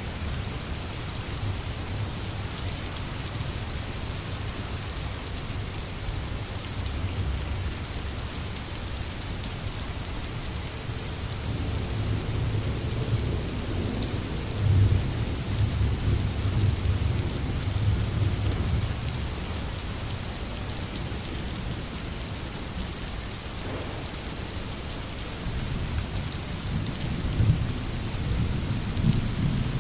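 Steady rain with distant thunder rumbling low, swelling about halfway through and again near the end.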